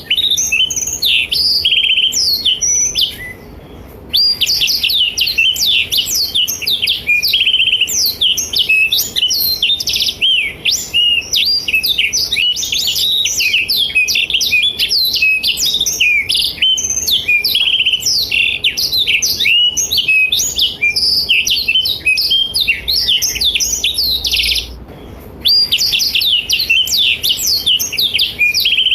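Black-throated canary (blackthroat) singing a long, fast run of chirps and trills in full song. It breaks off twice for about a second, once a few seconds in and once near the end.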